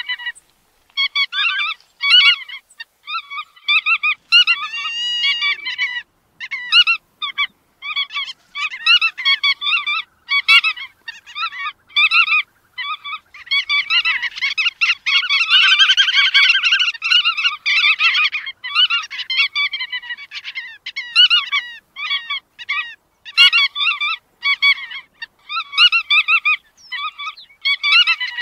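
Bar-tailed godwits calling: a steady stream of short, repeated calls, several a second, which thicken into a dense overlapping chatter about halfway through.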